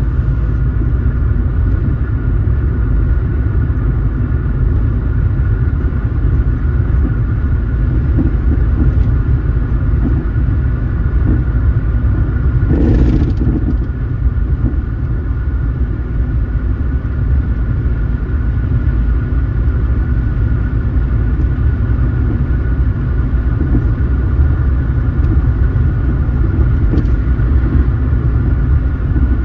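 Car driving at steady speed: a loud, even low rumble of engine and road noise with a faint steady whine. About thirteen seconds in, a short whoosh rises and falls over it.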